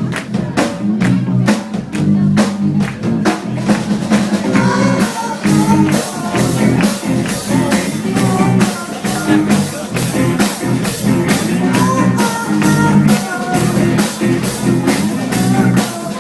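Rock band playing live: a drum kit keeping a steady beat over bass and guitar, with a melody line above. About five seconds in the cymbals come in louder and brighter.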